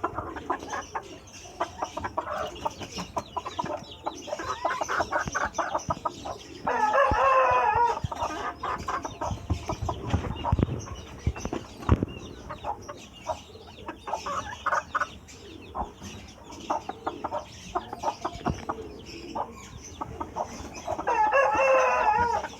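Young paper-white Ko Shamo rooster crowing twice, once about seven seconds in and again near the end, each crow about a second and a half long. Between the crows, chickens cluck in short, repeated sounds.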